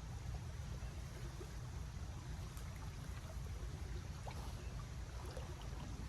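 Shallow creek water running steadily, under an uneven low rumble of wind on the microphone, with a few faint small ticks.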